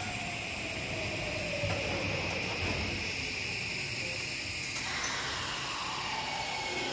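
Hokuso Railway commuter train standing at an underground platform while its doors close, with a steady high hum and hiss from the stationary train.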